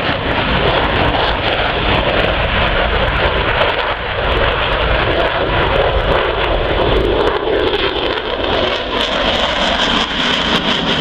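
Loud, steady noise of aircraft engines as display aircraft fly past, cutting off abruptly at the end.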